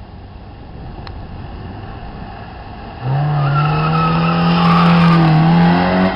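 Engine idling low, then about three seconds in an Opel Manta's engine suddenly revs loud and pulls hard as the car launches off the sprint start, its pitch climbing slightly, easing off just before the end.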